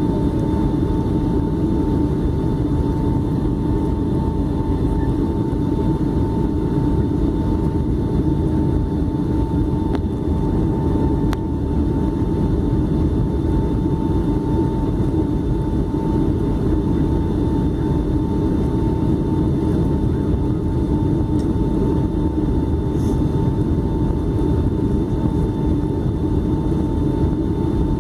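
Steady cabin drone of a Boeing 757 on approach: engine and airflow noise heard from inside the cabin, with a thin, steady whine on top.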